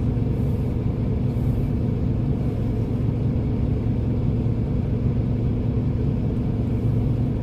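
Volvo B7RLE bus's six-cylinder diesel engine running steadily: a low, even drone with no rise or fall in pitch.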